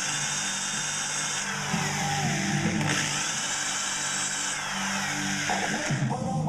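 Electric drill running in repeated runs of about a second and a half, its motor whine sweeping in pitch as it spins up at the start of each run.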